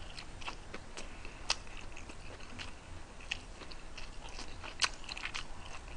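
Close-miked chewing of a mouthful of food, with soft wet mouth clicks and a few sharper clicks.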